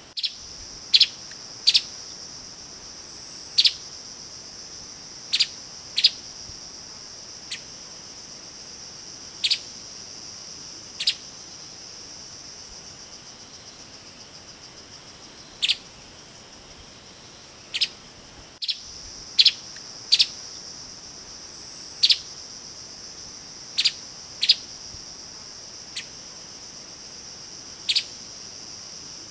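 Streaked spiderhunter giving loud, sharp call notes at irregular intervals, some singly and some in quick pairs, about twenty in all. A steady high-pitched insect buzz runs underneath.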